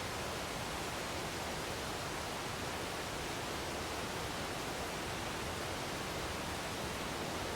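A waterfall's steady rush of falling water, an even unbroken noise.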